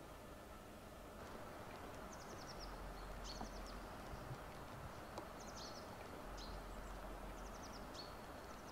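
Faint outdoor background with a bird calling a few times: short quick runs of high chirps, with single chirps in between.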